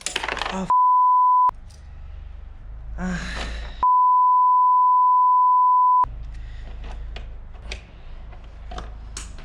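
Two steady 1 kHz bleep tones dubbed into the audio, the kind used to censor swearing. The first lasts under a second and the second about two seconds. A short noisy sound falls between them.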